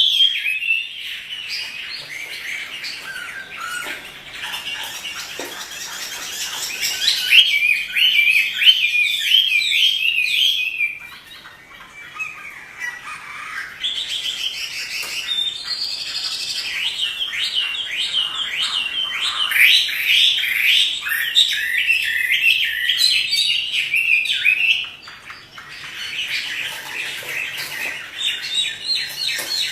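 Chinese hwamei (Garrulax canorus) in full song: a long run of rapid, varied, fast-changing phrases, with two short lulls, about eleven and about twenty-five seconds in.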